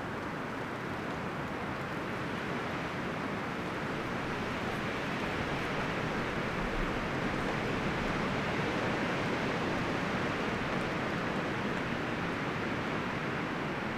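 Wind blowing through forest trees, rustling the leaves and branches in a steady wash that swells a little around the middle.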